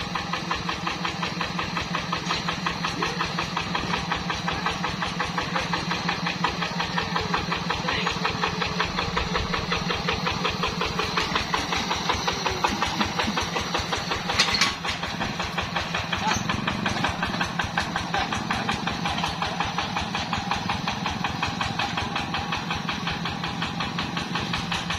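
A Yanmar hand tractor's single-cylinder diesel engine running steadily, its rapid, even firing pulses unbroken, with one sharp click about two-thirds of the way through.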